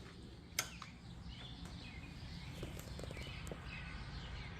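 Songbirds chirping faintly, with a steady low hum underneath and a single sharp click about half a second in.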